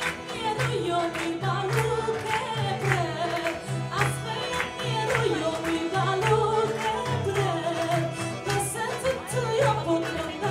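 Live band music with a woman singing a wavering, ornamented melody over bass notes and a regular percussive beat.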